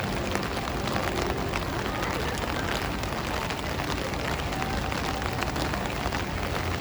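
Rainy city street ambience: a steady hiss of rain on the pavement, with faint voices of passers-by and passing traffic mixed in.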